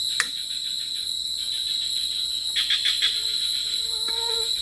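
Forest insects trilling: a steady high drone with spells of rapid pulsed chirping, about a second in and again near the end. A single sharp click comes about a quarter second in.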